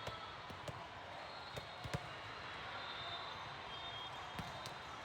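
Scattered sharp smacks of volleyballs hitting hands and the hard gym floor over steady background hall noise, the loudest about two seconds in.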